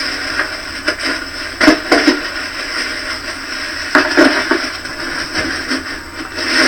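Dry leaf litter rustling and crunching in bursts as it is scraped and pulled aside by hand, clearing the forest floor down to the damp layer beneath.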